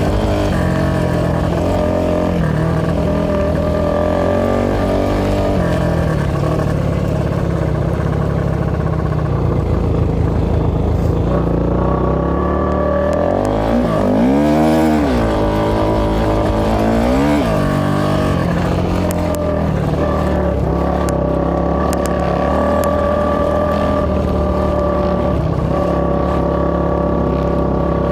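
A 450cc four-stroke single-cylinder off-road engine running hard and steadily. About halfway through, the revs climb and fall back, and they rise and drop again a few seconds later.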